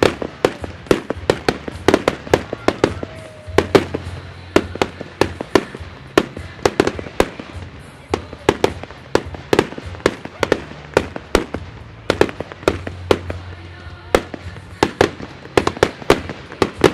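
Aerial fireworks going off in a rapid, steady run of sharp bangs, about three a second, as small red-starred shells burst one after another.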